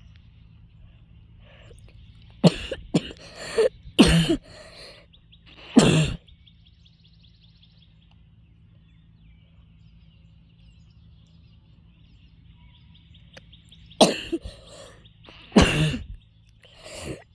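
A person coughing and clearing their throat in bouts from an illness: a cluster of coughs from about two and a half to six seconds in, then quiet, then more coughs near the end.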